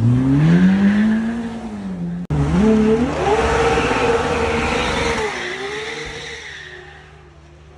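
Supercar engines accelerating hard. One revs up and holds its pitch, then after an abrupt cut another climbs quickly to high revs, holds them for about two seconds, drops and fades away.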